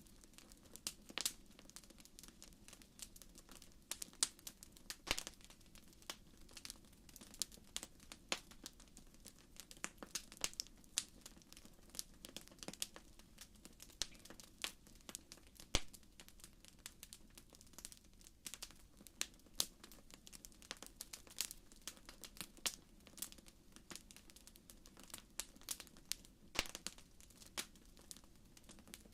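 Wood fire crackling in a fireplace: irregular sharp pops and snaps several times a second over a faint low hiss of burning.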